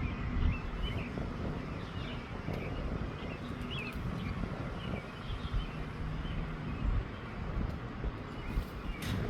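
Wind buffeting the microphone as a steady, uneven low rumble, with faint, short bird chirps over it.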